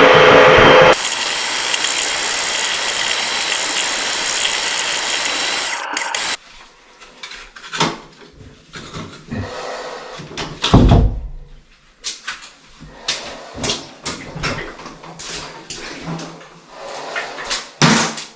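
A motor-driven machine running loudly, dropping to a quieter steady hiss about a second in and cutting off about six seconds in; after that, scattered knocks and clatter from handling equipment.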